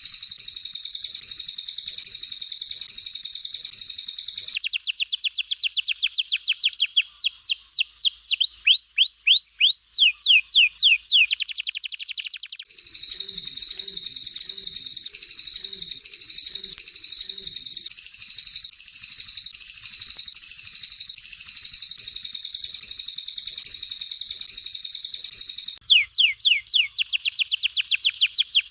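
Recorded songbird song alternating between canary and cililin. A dense, high, unbroken trill gives way twice to fast runs of sharp, downward-sweeping whistled notes, about four to five a second: once from about 5 to 12 seconds in, and again near the end.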